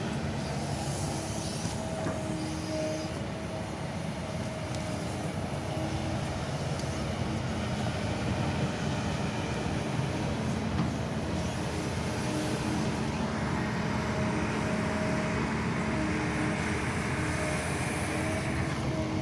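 Kobelco SK200 Super X excavator's diesel engine running steadily while it digs and places soil, with a constant engine note; it works somewhat harder from about two-thirds of the way in.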